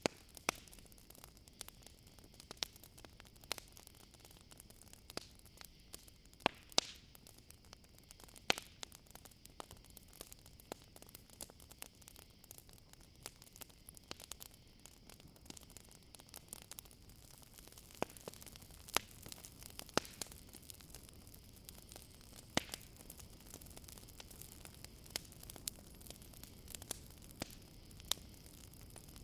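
Campfire crackling, with irregular sharp pops, over a steady high chirring of crickets.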